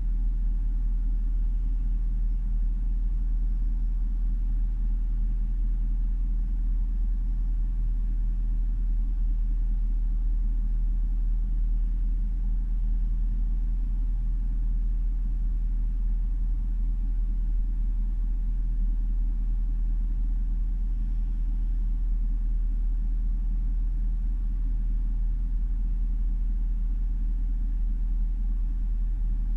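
Jaguar XFR's supercharged 5.0-litre V8 idling warm at a steady, deep, low pitch with no revving. The owner calls it a rough idle.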